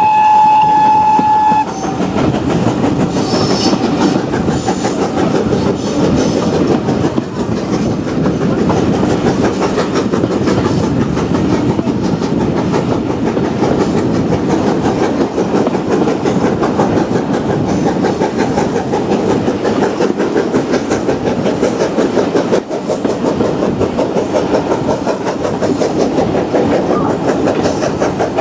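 A steam locomotive's whistle sounds one steady note that stops just under two seconds in. It is followed by a train running on the rails, with a dense, steady clickety-clack of wheels over the track.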